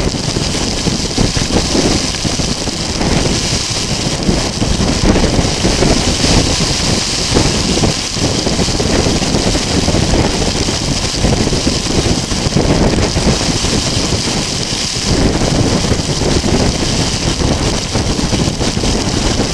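Loud, steady roar of storm wind and rain, with gusts buffeting the microphone.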